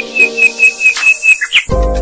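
Background music with a bird chirping over it: a quick run of short, high whistled notes, about five a second, ending in one rising note. Near the end a deep bass comes in under the music.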